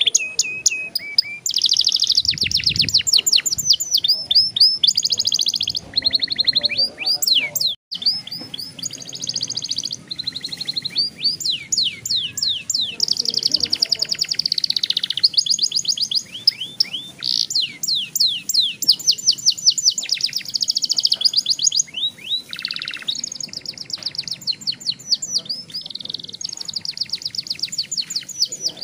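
Young domestic canary singing long rolling trills: fast runs of repeated, sweeping high notes, one run after another, with a brief silent break about eight seconds in.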